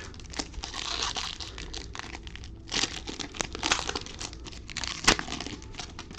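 A foil trading-card pack being torn open and its wrapper crinkled, with a sharp snap about five seconds in.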